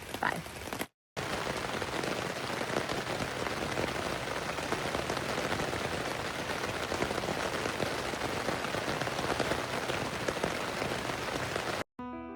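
Steady rain falling on a tent, a dense even patter that cuts off suddenly near the end.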